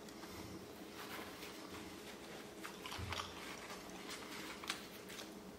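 A person chewing a mouthful of beer-battered tempura halibut taco, faintly, with small crunching clicks.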